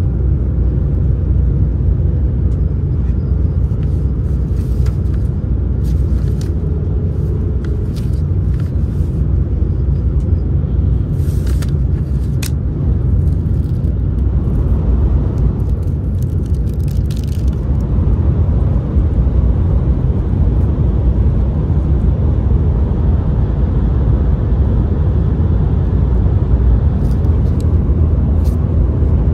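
Cabin noise of a Shinkansen bullet train running at speed: a steady low rumble. Several short bursts of paper crackle come through it as a bento's paper wrapping and chopstick sleeve are handled.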